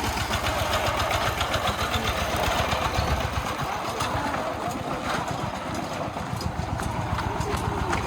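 Small Chinese-made 13.46-horsepower tractor engine running steadily as the tractor is driven, a rapid, even pulsing.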